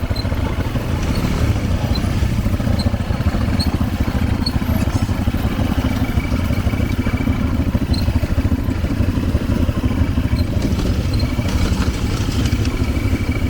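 ATV engine running steadily at low revs with a fast, even throb, as the quad creeps slowly down a steep slope.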